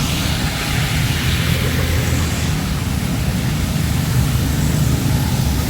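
Heavy rain pouring steadily, with a low, even rumble of road traffic underneath.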